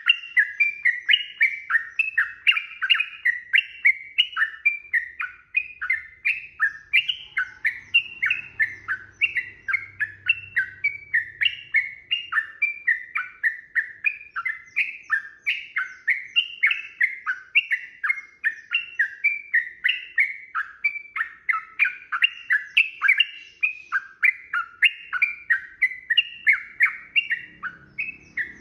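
Sooty-headed bulbul (trucukan) singing a long unbroken run of short, rapid chirping notes, about three a second, the fast continuous song that bird keepers call ropel; it breaks off near the end.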